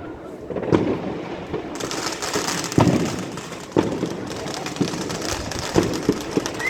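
Fireworks going off: sharp bangs about once a second, with a steady crackle and hiss that gets brighter about two seconds in.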